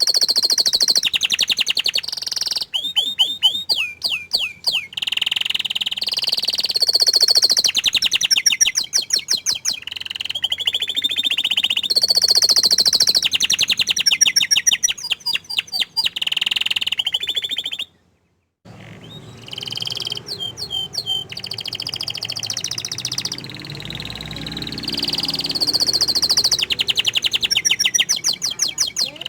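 Domestic canary singing a long, fast song of rapid trills and rolls with runs of falling chirps, broken by a short silence about two-thirds of the way through.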